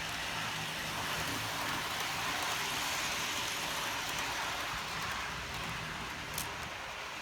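Model train running along the track, a steady hiss of motor and wheels, with a single light click near the end.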